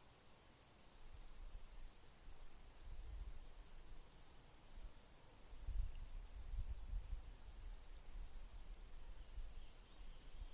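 An insect, cricket-like, chirping steadily: a high, thin tone in rapid even pulses. Gusts of wind rumble on the microphone underneath, strongest about three and six seconds in.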